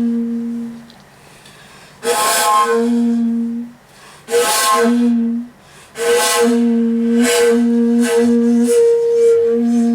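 Shakuhachi (end-blown bamboo flute) playing a solo komuso-style piece: a long low held note fades out, then after a pause come three forceful, breathy, rushing attacks that settle into held tones, the last one long and re-struck with several more breath accents. It is a piece with a fierce opening and strong swings between loud and soft.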